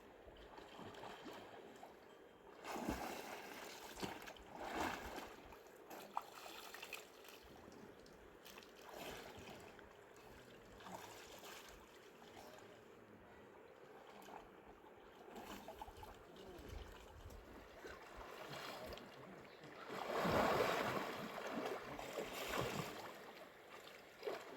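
Water running and splashing, with irregular louder splashes now and then, the loudest stretch about twenty seconds in.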